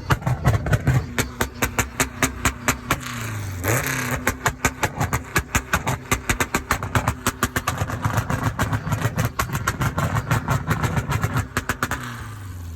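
Engine running loudly with a rapid, even pulsing of about six sharp pops a second, its pitch rising briefly about four seconds in as it is revved.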